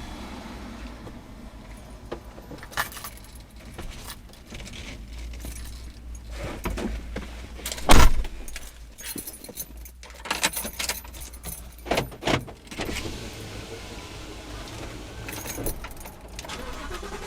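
Rattling, clinking and knocking of things being handled inside a just-parked car, with one loud thump about eight seconds in and a few sharper knocks soon after, over a steady low rumble.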